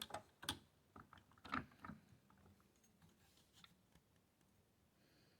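A castle nut wrench clicking and tapping against the castle nut of an AR-15 lower receiver as it is turned: a quick run of light metallic clicks in the first two seconds, one faint click later, then near silence.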